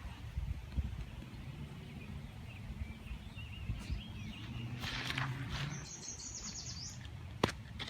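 Outdoor ambience with small birds chirping a few seconds in and a higher trilling song near the end, over a steady low rumble. A single sharp click comes just before the end.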